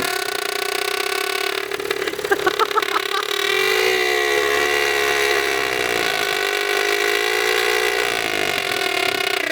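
Honda Prelude engine running through an exhaust with no muffler and a pinched, holed pipe, given light throttle. There is a short stretch of uneven pulsing about two seconds in, and the pitch shifts a little as the revs change.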